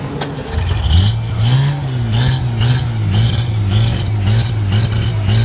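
Vintage open-wheeled racing car's engine catching about half a second in, after a sharp click, then running with the throttle blipped so that its note rises and falls about twice a second.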